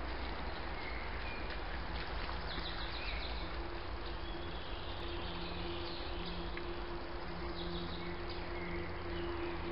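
Woodland ambience: faint, scattered short bird chirps over a steady hiss and a low, wavering hum.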